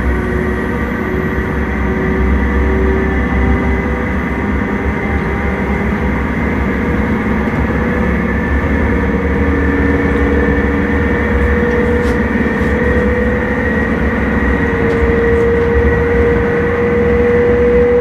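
Intercity train running, heard from inside the driver's cab: a steady rumble and running noise with a motor whine that rises slowly in pitch through the second half.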